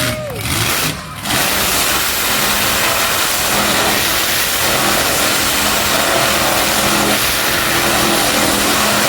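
Monster truck engine running at high revs, loud and steady, after a short dip about a second in.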